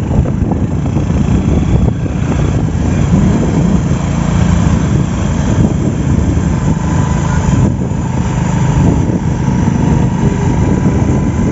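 A vehicle engine running steadily while riding, mixed with loud wind rumble on the microphone.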